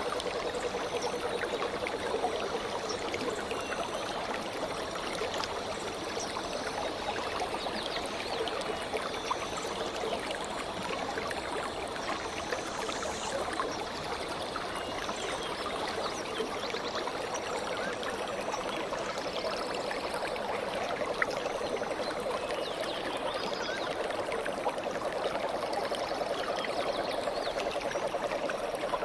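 Stream water flowing and trickling steadily, with faint high bird chirps now and then.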